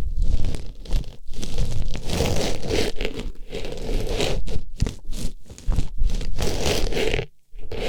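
An artificial rose being pushed and rubbed inside a microphone's ear, giving loud close crinkling and rustling scrapes in repeated strokes with brief pauses between them.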